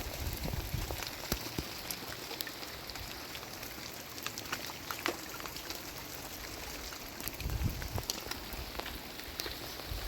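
Heavy rain falling, with many separate drops ticking sharply against a hard surface, and a brief low rumble about three-quarters of the way through.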